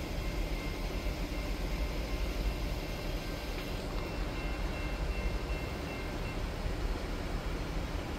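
Low, steady rumble of an approaching Amtrak passenger train, still some distance off down the line.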